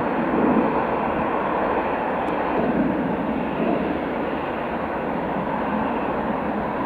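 Jet airliner engines heard as a steady, even rushing noise with no clear tone, holding at a constant level.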